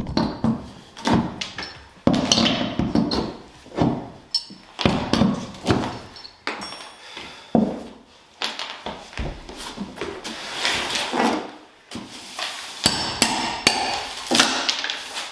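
Repeated hammer blows knocking at a wooden 2x4 in demolition work, irregular strikes about one or two a second.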